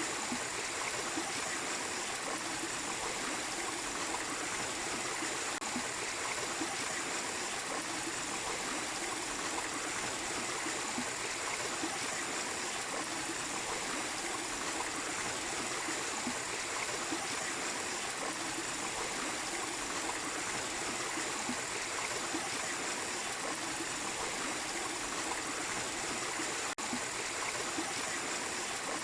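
Small waterfall splashing and trickling steadily into a stream, a constant rush of water with a momentary dropout near the end.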